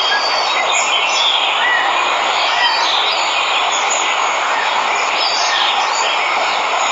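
Steady rush of a waterfall, with birds chirping briefly here and there over it.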